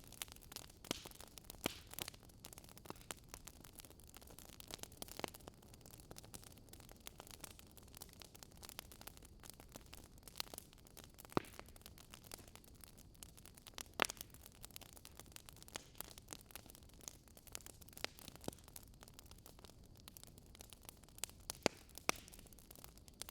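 Faint crackling of burning firewood: irregular sharp snaps and pops over a low hiss, with a few louder pops scattered through.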